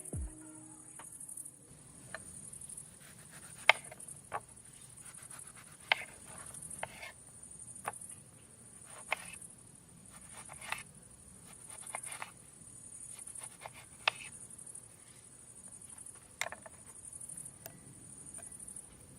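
Insects chirping outdoors in a high, steady trill that swells and fades every second or two. Scattered sharp clicks and taps sound over it, the loudest about four seconds in.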